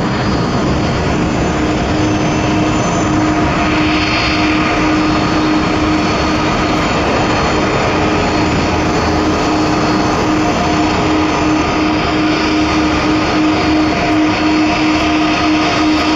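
Airbus A330 jet engines running steadily: a loud, even rumble with a steady humming tone over it.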